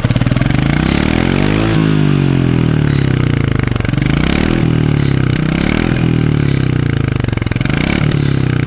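Royal Enfield Meteor 350's single-cylinder engine idling through its stock exhaust, blipped up and back down several times, the biggest rev about two seconds in.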